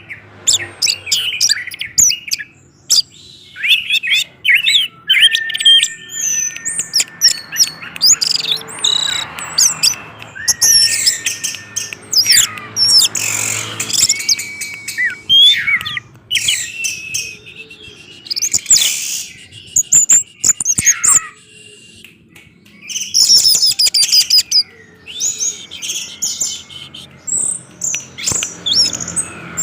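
Orange-headed thrush in full, continuous song: a long run of rapid, varied whistled phrases with sweeping notes and short gaps between them, and a brief lull about three-quarters of the way through.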